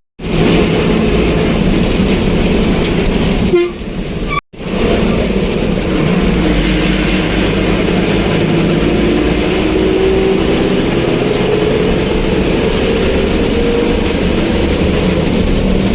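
Moving vehicle's steady running noise, with a tone that slowly rises in pitch through the middle, broken by two abrupt cuts in the first few seconds.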